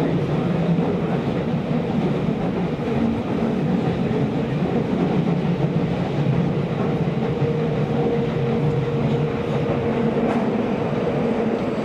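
Tokyo Metro Series 16000 subway train running between stations in a tunnel, heard from inside the car: a steady rumble of wheels on rail with a low hum from the running gear. A higher steady tone joins about halfway through.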